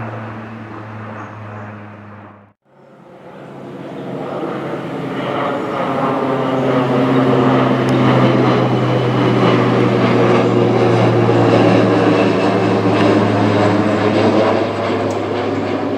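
Lockheed HC-130J Combat King II turboprop flying by, its four engines and propellers making a steady low drone. The sound cuts out briefly about two and a half seconds in, then swells as the aircraft passes close, and eases a little near the end.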